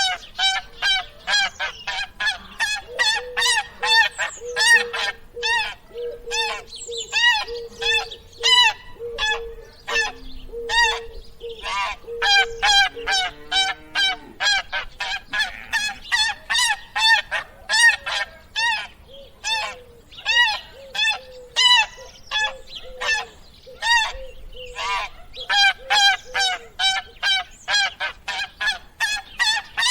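Geese honking: a long run of short, nasal honks, about two or three a second, with several calls overlapping at times.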